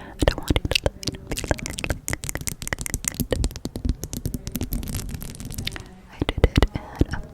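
Close-miked ASMR trigger sounds: rapid, irregular clicks and taps with some scratchy rustling, easing briefly about six seconds in before sharper clicks resume.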